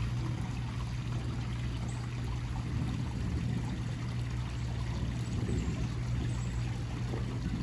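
Steady rain falling during a thunderstorm, with the hiss of water running and trickling and a steady low hum underneath.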